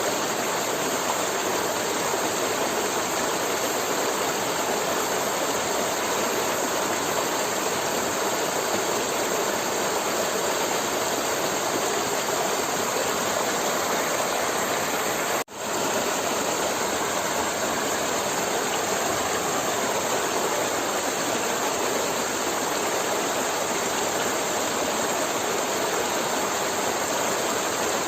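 Forest river water flowing and rushing steadily. It cuts out for an instant about halfway through, then carries on unchanged.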